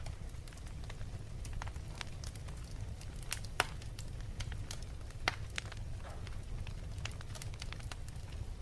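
Wood fire crackling in a fireplace: irregular sharp pops and snaps over a low steady rumble, with two louder pops about three and a half and five seconds in.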